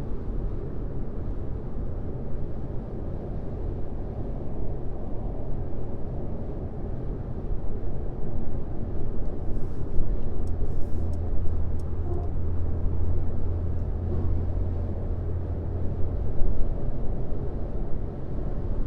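Steady road and tyre noise of a car driving along a highway, with a deeper low hum swelling for several seconds in the middle.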